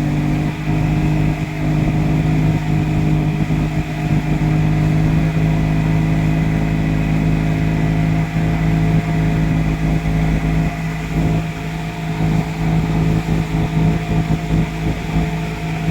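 A boat's engine running steadily under way, a constant droning hum with low rumble from wind and water.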